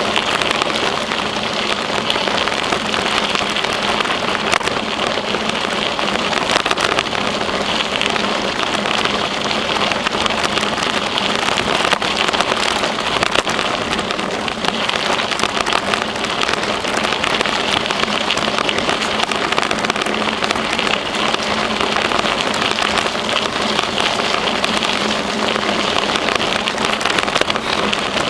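Steady crackling hiss of a bicycle ride along a trail: tyre noise on the path and wind rushing over the microphone, with a faint steady hum underneath.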